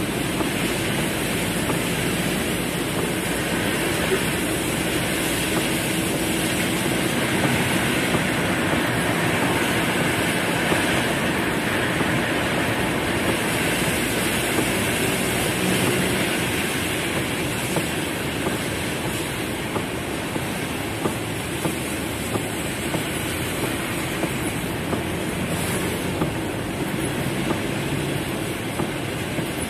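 Heavy rain drumming on a car's roof and windows, heard from inside the cabin: a steady dense patter with frequent sharper drop hits, more noticeable in the second half.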